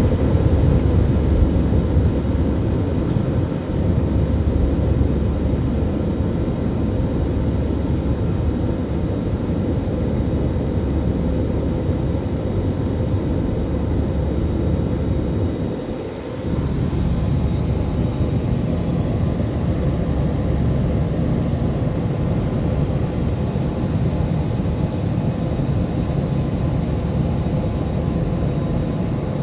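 Steady rumble of an airliner in flight heard from inside the cabin: deep engine and airflow noise with a faint steady hum, easing briefly about halfway through.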